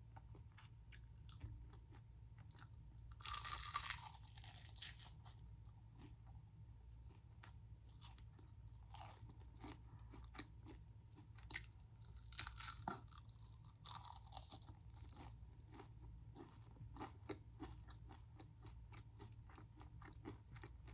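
Close-up crunching bites and chewing of crispy fried street food: a loud crunch about three seconds in, another around twelve seconds, and small chewing clicks between, over a faint steady low hum.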